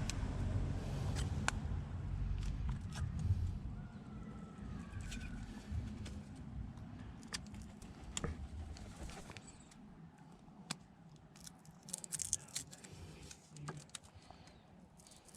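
Light metallic clicks and scrapes as a new spark plug is handled and gapped with a spark plug gapping tool, over a low rumble that fades during the first few seconds.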